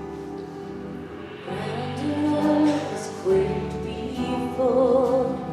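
Contemporary worship song played live by a church band, with steady sustained chords. About a second and a half in, a sung melody line with vibrato comes in over the band, louder than the chords.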